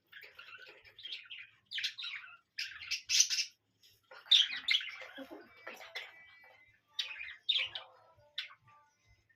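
Parrot calling: a run of short, irregular chirps and squeaky notes with brief pauses between them.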